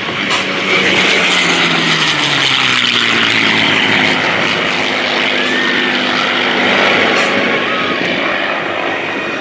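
Two WWII propeller fighters, an F4U Corsair with its Pratt & Whitney R-2800 radial and a P-51 Mustang with its Merlin V-12, passing at speed from opposite directions. The engine notes drop in pitch as they go by in the first few seconds, and the loud propeller and engine noise holds through the middle before easing slightly.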